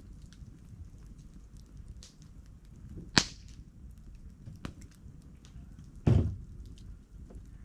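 Wood campfire crackling, with scattered small ticks and pops over a low steady rumble. One sharp, loud crack about three seconds in and a duller thump about six seconds in.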